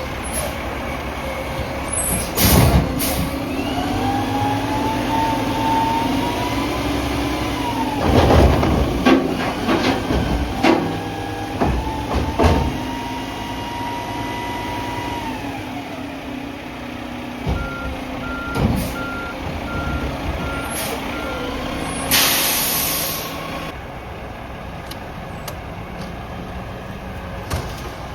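Diesel engine of a Mack MRU front-loader garbage truck revving up and holding high while the loader works, with several loud metal bangs and clanks. Later come about five reversing beeps, then a loud air-brake hiss near the end.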